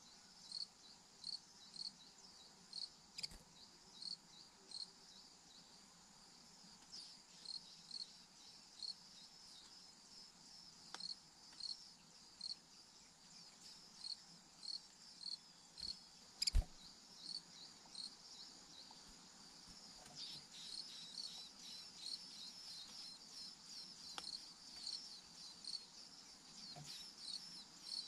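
Cricket chirping steadily, a faint high chirp about twice a second, with a single sharp click a little past halfway.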